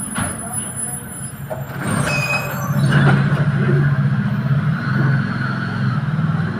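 Tram pulling into a stop: a steady low hum of the tram's equipment, with a brief high squeal and some clanks about two seconds in.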